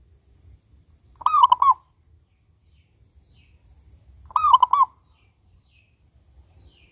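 Zebra dove (perkutut) cooing: two short rolling coo phrases about three seconds apart, each a quick run of three or four looping notes. Faint high chirps of another small bird are heard between them.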